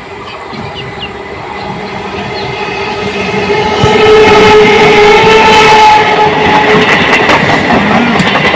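Electric suburban local train approaching and sounding a long, steady horn blast, growing steadily louder as it nears, with wheel clatter on the rails underneath.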